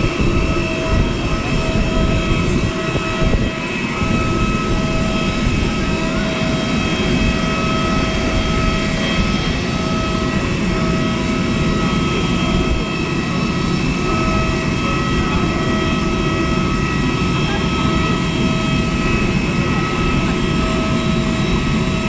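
Jet airliner noise: a steady rush with several constant high whining tones over it, holding level throughout.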